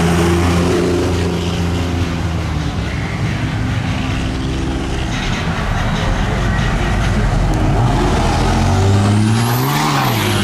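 Truck engines running, one holding a steady pitch at first; near the end an engine revs up and drops back, with a high whine rising and falling along with it.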